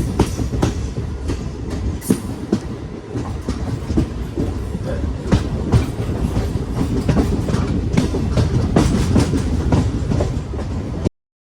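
Train running on the track, its wheels clacking over the rail joints amid a steady rumble; the sound cuts off abruptly near the end.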